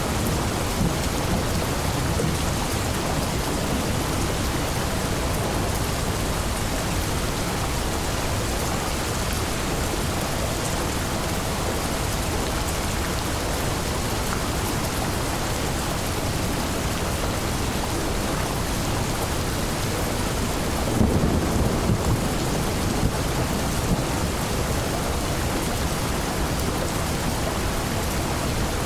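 Steady rainstorm with thunder: rain falling without let-up, and a low roll of thunder swelling about three quarters of the way through.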